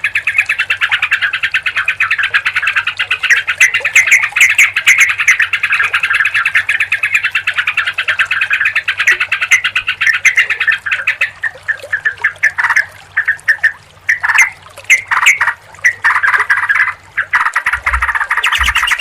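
Yellow-vented bulbuls (trucukan) chattering, many calls overlapping into a dense, continuous chorus. About 11 seconds in it thins to separate short calls with gaps, then the dense chatter resumes near the end, over a faint low hum and a few low thumps.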